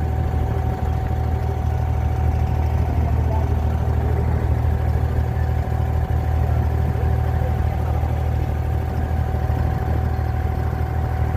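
Abra water taxi's inboard diesel engine running steadily, a constant low drone with a faint steady hum above it.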